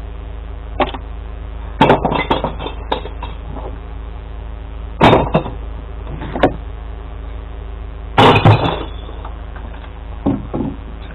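Glass bottles crashing and clinking into a glass recycling truck's compartment in several separate bursts, the loudest about two, five and eight seconds in, over the steady hum of the truck's idling engine.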